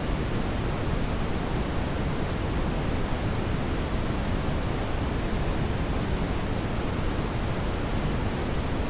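Steady brown noise: an even, unchanging rumbling hiss weighted toward the low end, used as a background masking sound.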